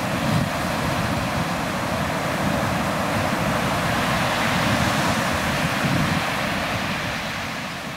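Ocean surf washing on the beach, with wind rumbling on the microphone; the wash builds a little toward the middle and eases near the end.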